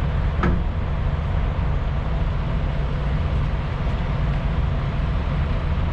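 An engine idling steadily with a deep, even low rumble.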